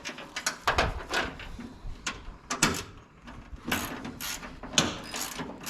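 Ratchet wrench clicking in short strokes as a fastener holding a footman's loop is tightened on the Jeep body.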